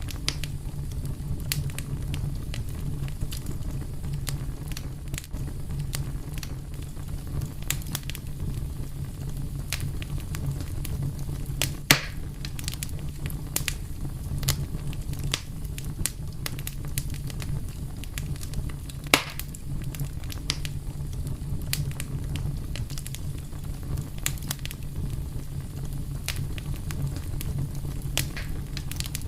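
Wood fire burning with a steady low rumble and frequent sharp crackles and pops, two of them louder, about twelve and nineteen seconds in.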